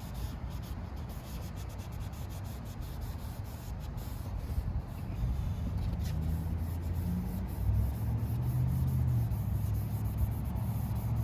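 3000-grit wet sandpaper rubbed back and forth by hand over a plastic headlight lens: a steady scratchy rubbing. A low hum builds up under it from about halfway.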